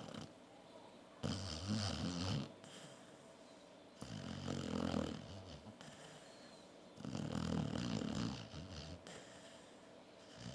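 Pit bull snoring in its sleep: three long snores, roughly three seconds apart.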